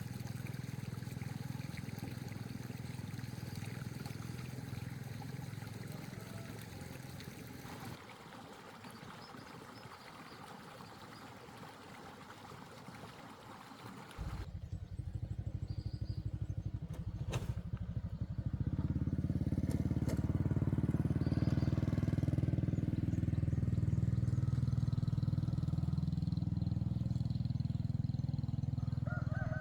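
Quiet mixed work sounds for the first half. Then an engine starts running with a rapid, even chugging about halfway through, getting louder a few seconds later and running steadily.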